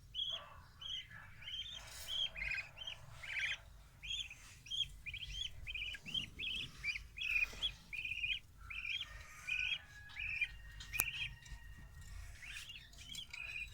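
Budgerigar chicks chirping: a steady run of short, high, repeated peeps, two or three a second. A single sharp click is heard about eleven seconds in.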